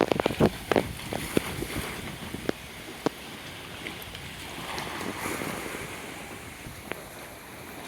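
Footsteps crunching and crackling through dry fallen leaves, densest in the first two seconds, then a few scattered snaps, over a steady rush of wind.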